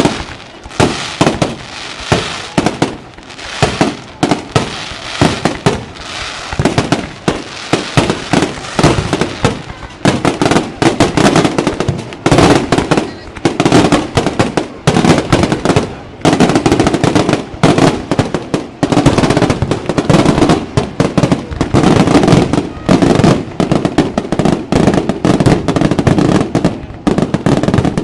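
Fireworks display going off: a rapid, continuous run of sharp bangs and shell bursts that grows denser and louder about ten seconds in, becoming an almost unbroken barrage.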